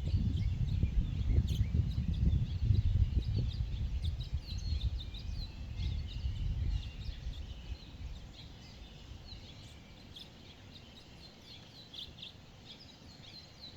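Several forest birds chirping and trilling in short, high calls. A loud, uneven low rumble runs under them for the first half, then dies away, leaving the birdsong over a quiet background.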